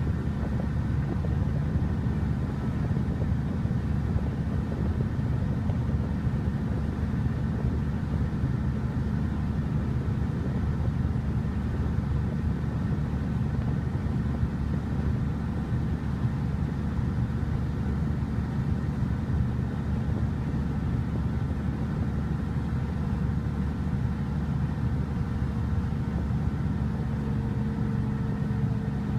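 River ferry's engine running steadily: an even, unbroken low drone with a steady hum.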